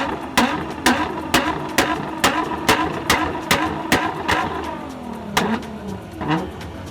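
Car engine and exhaust revving up and down, with a sharp hit about twice a second. The hits thin out after about four and a half seconds.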